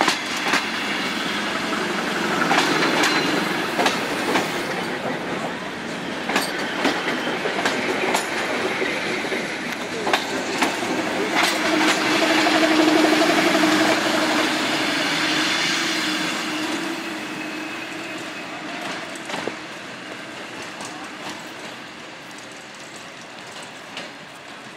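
Electric passenger train rolling past close by as it pulls out, its wheels clicking irregularly over the rail joints. The sound is loudest about halfway through, then fades as the last cars draw away.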